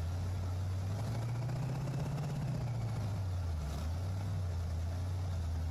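Pontiac V8 engine running on a test stand during its break-in run at a fast idle, its revs lifting slightly and easing back about halfway through as the throttle is varied. The engine is starting to run hot.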